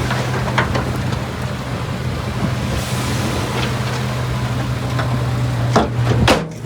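Heavy earthmoving machine's diesel engine running steadily under a rumble of moving dirt and rock, with scattered knocks and two loud clanks near the end before the sound cuts off.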